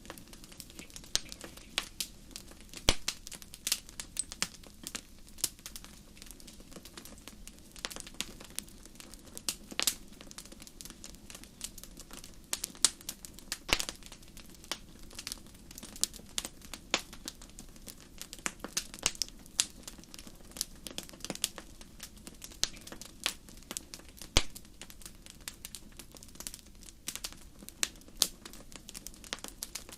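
Campfire crackling: irregular sharp pops and snaps of burning wood, some much louder than the rest, over a steady low rumble of the flames.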